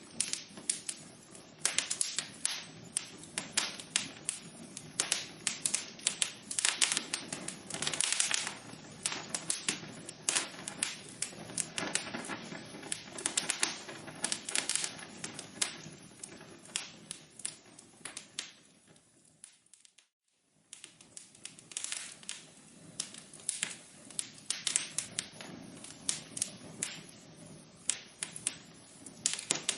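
Wood fire burning in a fireplace, crackling with many irregular sharp pops over a steady low hiss. About two-thirds through it fades out, falls silent for about a second, then the crackling resumes.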